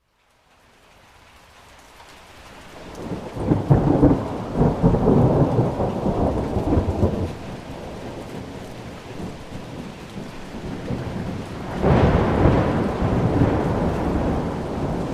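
Thunder rumbling over steady rain: a rolling peal builds up out of near silence and is loudest between about four and seven seconds in. A second peal breaks suddenly about twelve seconds in and rolls on.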